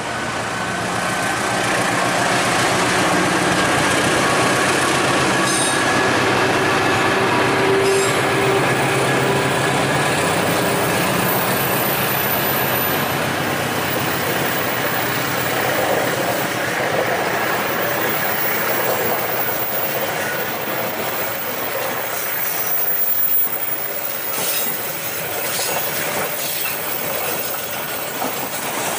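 Passenger train running past on the rails, building up over the first two seconds, then a steady rush of wheels on track. Faint squealing tones ride over it in the first half, and near the end there is a clickety-clack of wheels over rail joints.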